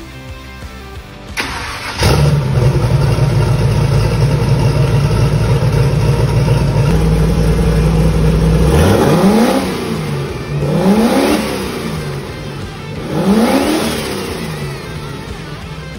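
Turbocharged engine firing up about two seconds in and running steadily, then revved three times, each rev rising and falling back.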